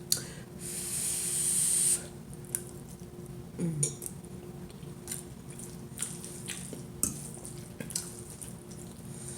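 Close-miked eating sounds: a hiss that swells for about a second and a half near the start and stops abruptly, then scattered small clicks.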